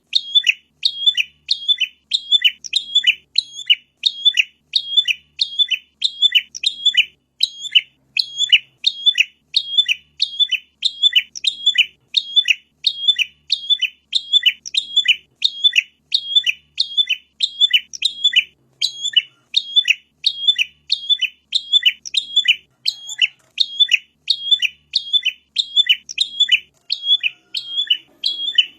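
Prinia (prenjak) calling: one short, sharp call repeated about twice a second without a pause. It is a looped training recording (masteran) used to get songbirds to sing.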